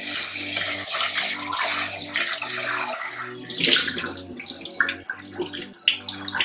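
Water running from a tap and splashing, steady for the first few seconds, then uneven and broken into splashes, stopping near the end.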